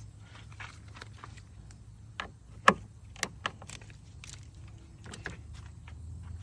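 Metal and plastic clicks and clinks of pressure tester fittings being handled and fitted together, with one sharp click a little under three seconds in, over a steady low hum.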